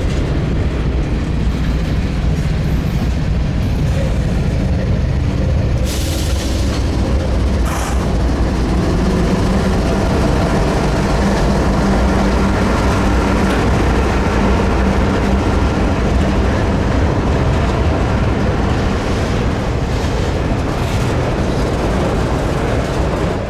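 Norfolk Southern diesel freight train passing: steady low rumble of the locomotive engines and rolling cars, with two sharp clanks about six and eight seconds in.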